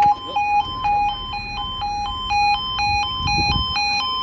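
Level crossing warning alarm sounding: a two-tone yodel alternating between a lower and a higher note about twice a second, the signal that a train is approaching and the crossing is closing.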